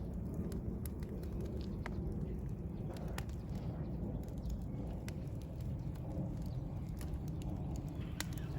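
Wood campfire crackling: irregular sharp pops and snaps over a steady low rush.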